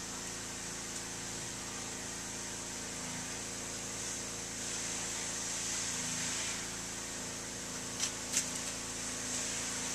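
A steady mechanical hum with a hiss, like a running motor or fan, holding even throughout. A few short clicks come about eight seconds in.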